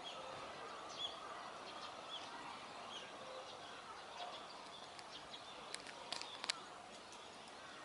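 Faint outdoor background with a small bird chirping briefly a few times, then a handful of sharp clicks in the second half.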